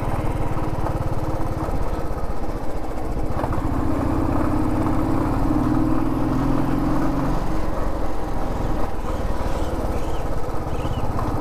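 Motorcycle engine running as the bike is ridden slowly, a steady pulsing hum whose note grows stronger for a few seconds in the middle.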